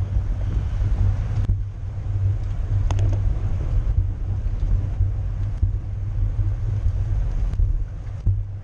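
Steady low rumble of wind and road noise on a microphone riding along on a bicycle at race speed, broken by a few sharp clicks.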